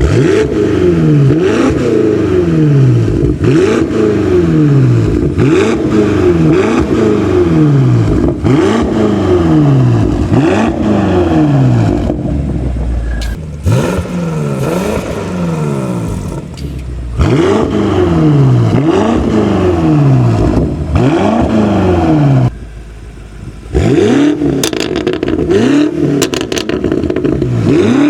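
BMW F90 M5's twin-turbo V8 through an aftermarket catback exhaust, its note sweeping up in pitch and dropping back again and again, about once a second. It eases off briefly twice along the way.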